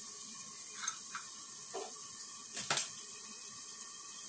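Onions and tomatoes sizzling steadily in a kadai covered with a plate, cooking down with salt and turmeric, with a few light metal clinks, the loudest near the middle.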